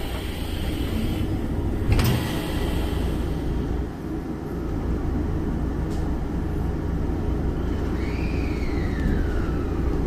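Inside an electric commuter train pulling away from a station: a sharp thud about two seconds in as the doors shut, then the low rumble of the car starting to roll. Near the end a whine falls steadily in pitch.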